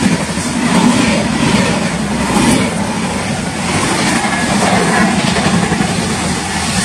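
Double-decker express train passing close by at speed: a steady rushing rumble of coaches and wheels on the rails.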